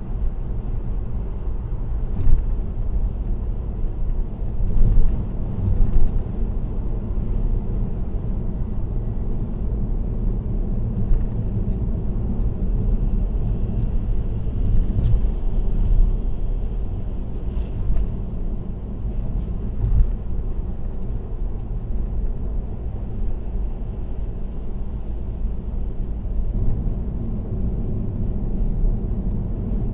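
Car cruising on an expressway: steady low road and tyre rumble, with a few brief thumps.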